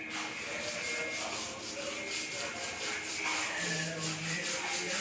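Rhythmic scraping strokes, several a second, like something being rubbed or sanded by hand.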